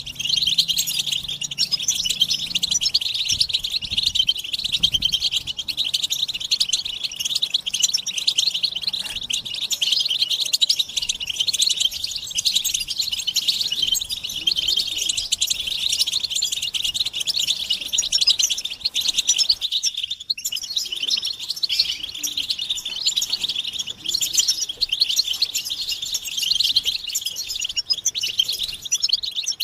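A group of European goldfinches twittering together in a dense, unbroken stream of quick high chirps, with one momentary break about two-thirds of the way through. This is excited group chatter of mating and readiness calls, of the kind played to stir a male goldfinch into song.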